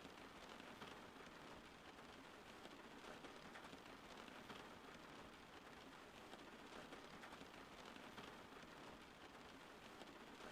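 Soft, steady rain falling, an even patter of many small drops with no thunder.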